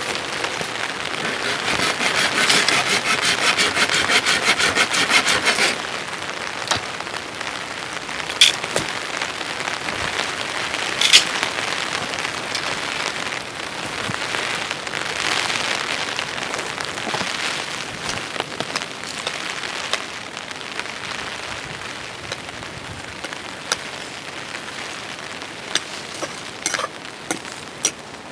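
Steady rain falling, with a louder stretch of rapid, rhythmic scraping about two seconds in that lasts a few seconds. Scattered sharp knocks and clicks come through the rain, two of them standing out.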